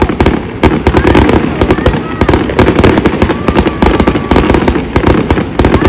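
Aerial fireworks display going off in a dense, continuous barrage of bangs and crackles, many each second.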